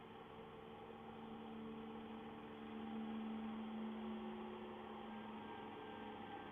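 Steady electrical hum over faint hiss, slightly louder about halfway through.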